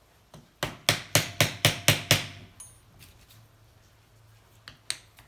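Hammer blows: a quick run of about seven sharp strikes at roughly four a second, a pause, then a few more strikes near the end. Hammering to drive loose a seized cylinder and piston on a small motorcycle engine.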